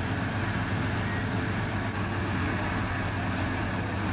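GE U34CH diesel-electric locomotive's engine running at a steady, even speed, a continuous low hum with no change in pitch.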